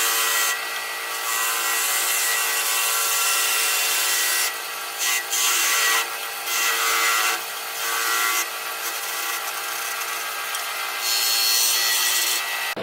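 Wood lathe running with a steady motor hum while a hand turning tool cuts into the spinning wood, the scraping cut noise coming and going in several passes of a second or two each.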